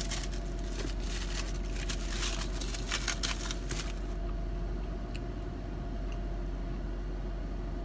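Close-up chewing of a flaky, cream-filled puff pastry, with crackly crunching for the first four seconds or so that then thins to a few soft clicks. Under it runs the steady hum inside a car.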